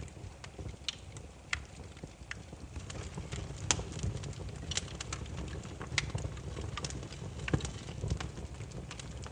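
Burning firewood crackling: irregular sharp pops and snaps, a few every second, over a low steady rumble of the flames.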